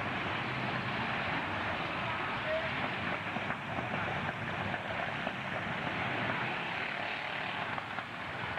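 Demolition-derby trucks running, their engines making a steady, dense din with no single loud crash.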